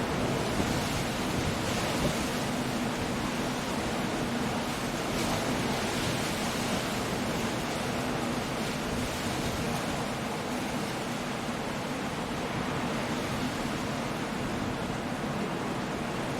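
Coastal storm: a steady, unbroken wash of surf and wind, with no distinct crashes or claps.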